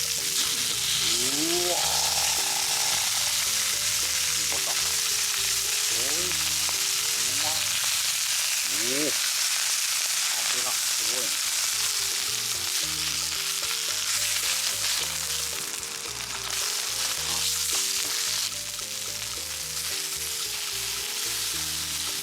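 Food frying on a hot multi griddle: a steady, dense sizzle with no break.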